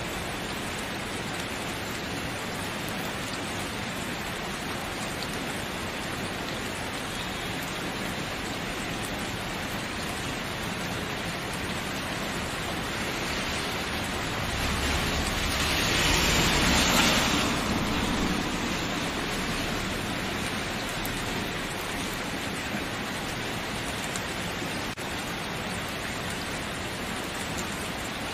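Steady rain falling as an even hiss, swelling louder with a deeper rumble for a few seconds past the middle before settling back.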